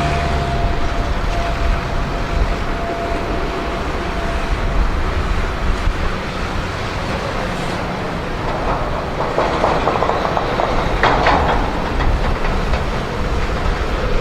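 Steady rumble of a Boeing 777-200ER's jet engines during its takeoff, with a faint steady whine in the first few seconds. A patch of clicking and rattling comes in about two-thirds of the way through.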